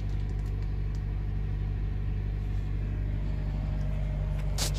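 Freightliner truck's diesel engine idling steadily, a low rumble, with a short sharp click just before the end.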